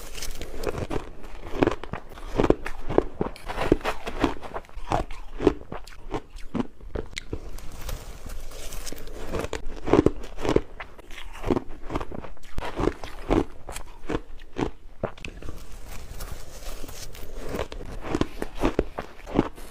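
Close-up crunching of shaved ice dipped in water, bitten and chewed: a steady run of wet crunches, several a second.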